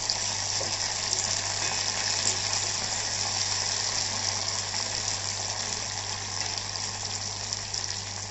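Chopped onion and tomato with curry leaves sizzling steadily in hot oil in an aluminium kadhai, stirred with a metal spatula.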